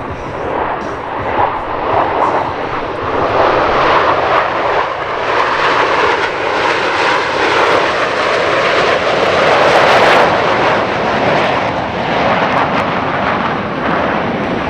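Airplane engine noise from an aircraft flying by, building to its loudest about ten seconds in and then easing off.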